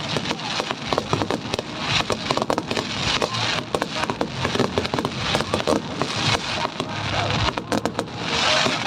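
Aerial fireworks going off in rapid succession: many sharp bangs and pops, with repeated swelling washes of crackling.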